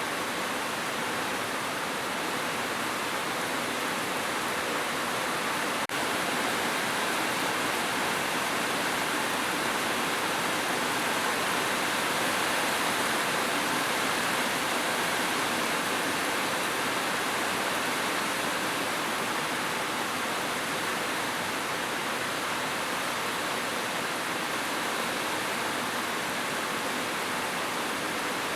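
Heavy rain falling steadily on a roof, an even hiss of drops with no thunder. A brief click about six seconds in.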